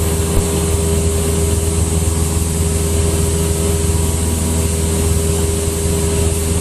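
Cessna 172's four-cylinder Lycoming engine and propeller giving a steady drone through the cabin at climb power.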